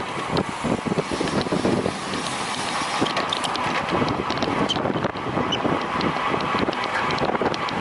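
Wind buffeting the microphone of a road cyclist's camera at racing speed, a steady rush of noise with uneven low gusting and faint ticks from the bike underneath.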